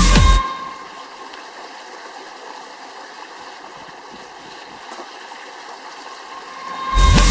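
Steady rush of flowing stream water, with electronic background music cutting out just after the start and coming back near the end.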